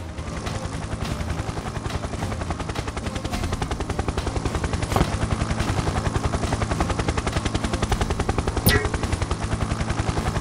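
Helicopter rotor sound effect: a fast, even chopping of the blades that grows a little louder over the first few seconds. A single sharp knock comes about five seconds in, and a louder one near the end.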